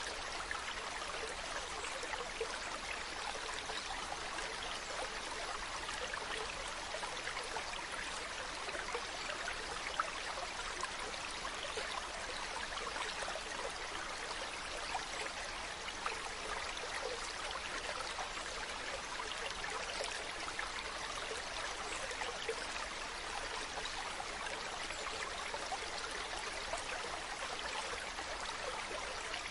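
Small brook running steadily: an even rush of water with light, splashy flecks and no change in level.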